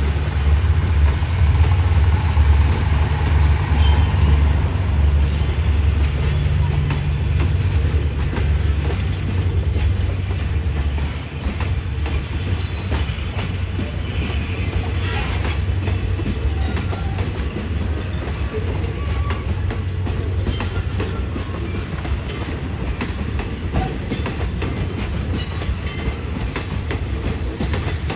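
Diesel train moving on the tracks: a low engine rumble with wheels clicking over the rail joints. The rumble eases about eleven seconds in.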